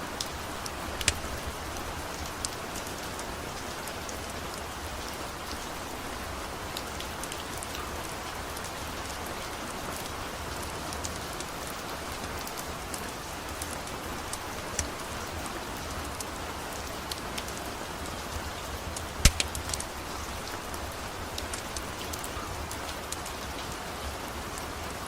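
Steady rain with scattered sharp crackles and pops from a wood-burning fire. The loudest pops come about a second in and again about three-quarters of the way through.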